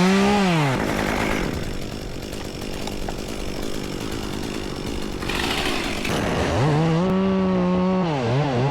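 Two-stroke chainsaw revved up and back down at the start, then a rougher stretch without a clear engine note. About six and a half seconds in it climbs to full throttle and holds there, then the throttle is blipped rapidly up and down near the end.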